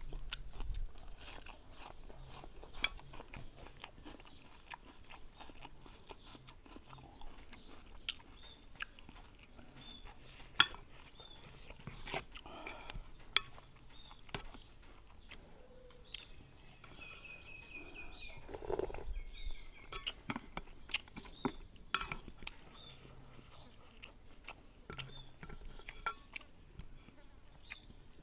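Close-up eating sounds: a person chewing and crunching fresh raw vegetables with noodles, with many small sharp clicks and a few louder bites.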